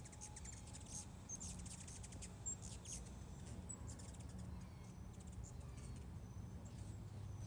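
Faint rapid, high chittering of ruby-throated hummingbirds: a dense burst of quick chips over the first few seconds, then scattered high chirps, over a low steady hum.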